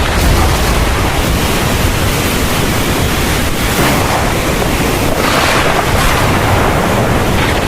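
Heavy thunderstorm rain pouring steadily, a dense even hiss with a low rumble underneath that swells a little past the middle.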